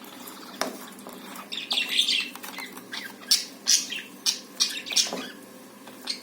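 Small caged pet birds chirping and squawking in short, repeated calls, busiest from about a second and a half in, with a few sharp clicks among them.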